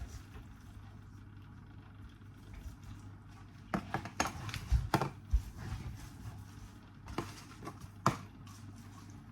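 Light knocks and clicks of kitchen dishes being handled while chicken is marinated, a cluster about four to five seconds in and two more near the end, over a steady low hum.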